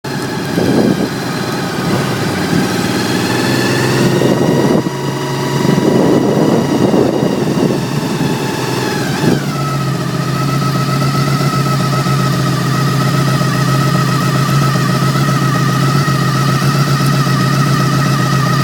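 Motorcycle engine running unevenly, its pitch falling about nine seconds in as it settles into a steady idle, with a steady high whine over it.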